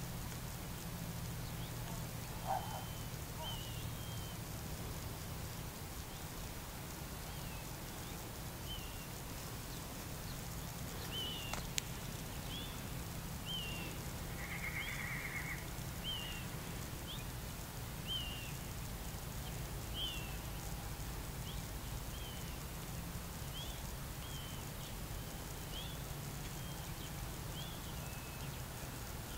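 A bird giving short high chirps about once a second, over a steady low rumble, with a brief buzz about halfway through.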